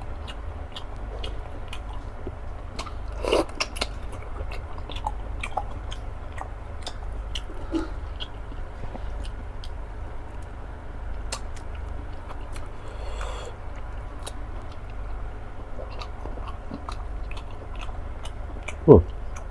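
Close-up chewing of soft fufu: wet mouth clicks and smacks scattered throughout, with a brief hum from the eater's voice near the end.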